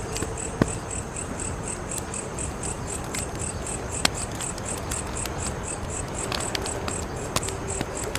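Wood fire crackling steadily, with a few sharp pops. A high, even insect chirping pulses about five times a second over it.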